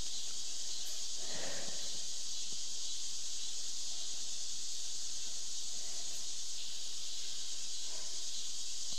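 A steady, even high-pitched hiss, unbroken throughout, with a faint soft sound about one and a half seconds in.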